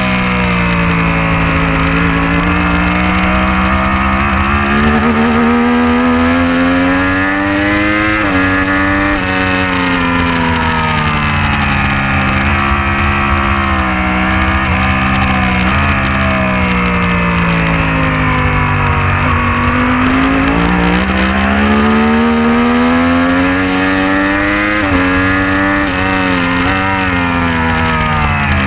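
A racing motorcycle engine running hard. Its pitch climbs and falls with throttle and gear changes, with quick shifts about a third of the way in and again near the end, over a low rumble.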